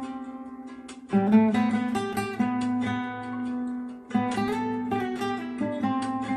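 Flamenco-style acoustic guitar music: plucked melody notes ringing over a sustained low note, with strummed chords striking hard about a second in and again about four seconds in.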